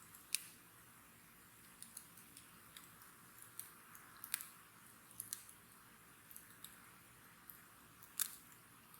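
Wood fire crackling: irregular sharp pops and snaps over a faint steady hiss, with two louder pops, one just after the start and one near the end.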